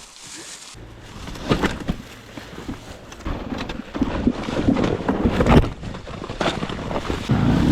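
A dirt bike crash: low rumbling and scraping noise with a few sharp knocks, about a second and a half in and again twice in the second half.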